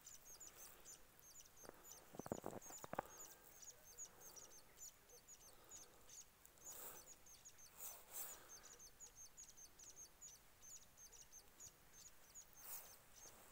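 Small birds chirping faintly: short high notes repeated several times a second. A brief cluster of soft knocks comes about two seconds in.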